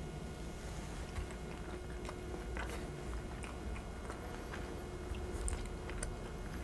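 A person chewing a mouthful of soft lasagna with the mouth closed: faint, scattered soft clicks and smacks.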